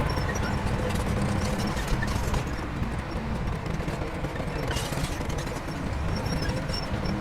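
Diesel engine of heavy earthmoving machinery running with a steady low rumble, with scattered clanks and clicks over it.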